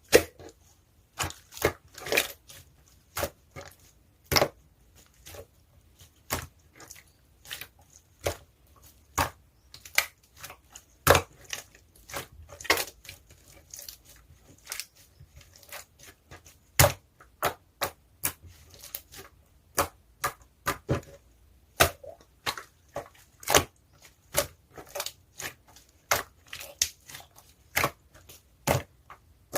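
Blue slime topped with small round add-ins being pressed and poked by hand, giving irregular crisp clicks and crackles, about two or three a second.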